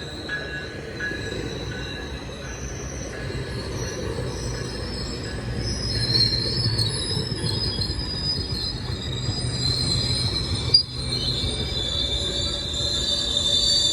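GO Transit commuter train rolling into the station, its steel wheels squealing in several high steady tones over a low rumble that grows louder. A single sharp knock about eleven seconds in.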